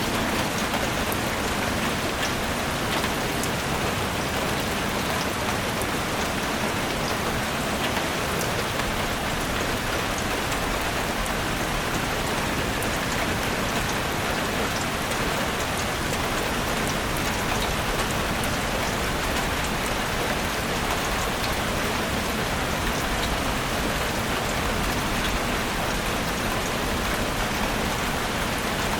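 Steady rain falling on forest foliage and ground, an even hiss with individual drops ticking through it.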